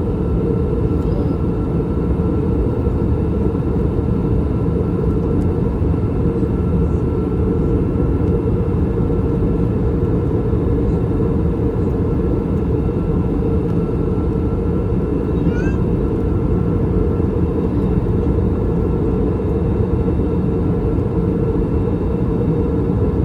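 Steady in-flight cabin noise of an Airbus A321 with IAE V2500 engines: a deep, even rumble of airflow and engine, with faint steady whines above it. About two-thirds of the way through comes one brief, high, rising squeak.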